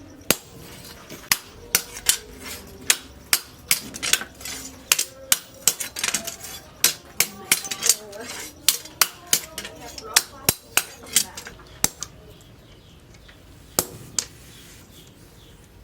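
Hammer blows on steel from a tractor disc plough, forged on an anvil: a run of sharp, ringing strikes, about two to three a second, that stops about twelve seconds in, with two more strikes near the end.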